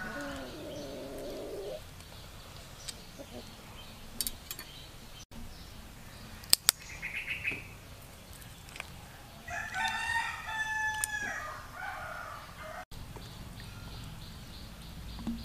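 Bird calls, with one long, loud call of several held notes about ten seconds in. Two sharp clicks come a little after six seconds.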